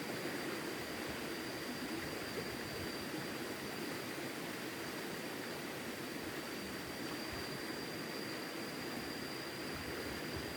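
Steady rushing of river water, an even hiss with a thin, steady high whine running through it.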